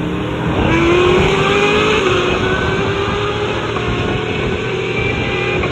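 Turbocharged LS V8 race car accelerating hard: the engine note climbs, dips about two seconds in, then climbs slowly again.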